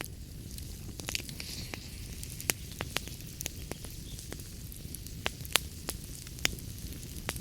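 Wood fire crackling in a fireplace: irregular sharp pops and snaps over a low, steady rumble of the flames, with a couple of louder pops.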